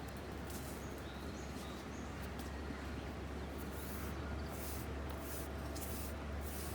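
Outdoor ambience: a steady rushing haze with a few faint bird chirps and intermittent soft crackly hiss.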